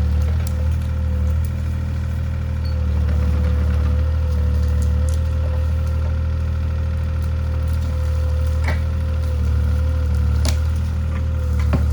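CAT 303C CR mini excavator's engine running steadily with a thin steady whine over its drone, while wood cracks and splinters a few times in the second half as trees are broken down.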